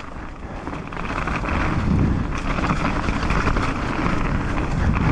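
Mountain bike riding fast down a dirt trail: wind rushing over the microphone and tyres rumbling over the ground, growing louder about a second in.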